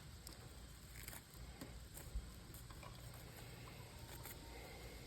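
Faint small clicks and light rattling from broken TV parts and copper wire being handled, over a low hum.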